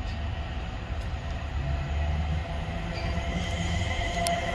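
Class 350 Desiro electric multiple unit running in along the platform, a low rumble of wheels on rail. About three seconds in a steady high squeal comes in and grows louder as the train draws near.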